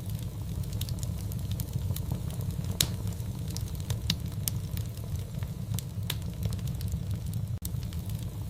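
Wood fire crackling: a steady low rumble of flames with scattered sharp pops and snaps, the loudest about three seconds in. The sound cuts out for an instant near the end.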